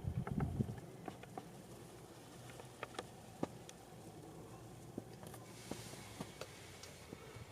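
Quiet background with faint, scattered sharp ticks and clicks, and a brief soft rustle at the very start.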